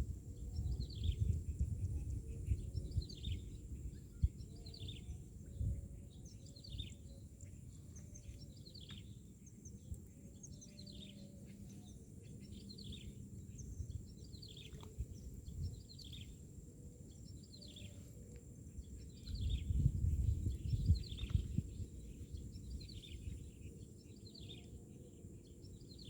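A bird chirping over and over, a steady series of short, high, falling notes, over a low rumble that swells near the start and again about twenty seconds in.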